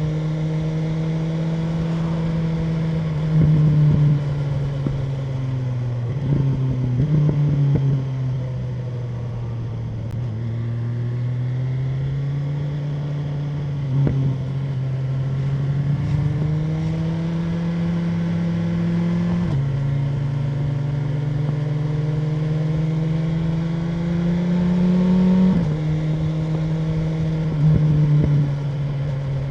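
BMW M1000R Competition's inline-four engine under way, its pitch climbing steadily as the bike accelerates and dropping at each gear change, several times. There are short louder bursts of throttle and exhaust around the shifts.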